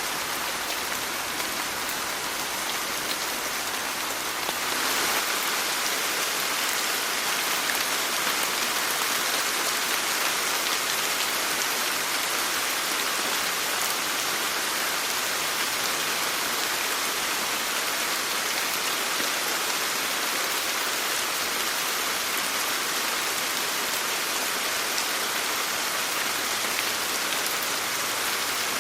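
Steady rain falling, a continuous even hiss of drops, growing a little louder about five seconds in.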